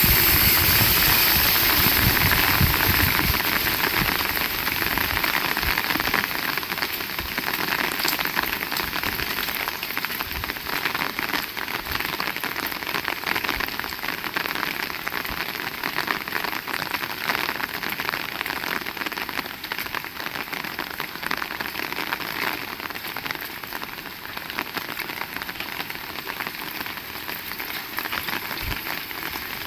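Heavy rain falling steadily: a dense, even hiss of countless drops. It is louder for the first few seconds, then settles a little lower.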